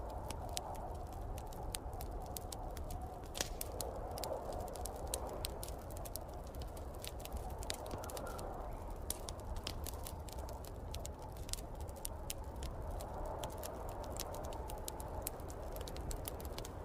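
Wood fire crackling in a fireplace, with many irregular sharp pops, over a steady rushing of snowstorm wind that swells and fades.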